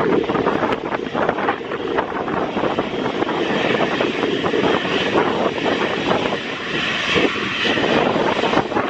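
Airliner engines passing close by, heard through heavy wind buffeting on the microphone. A higher whine builds from about a third of the way in.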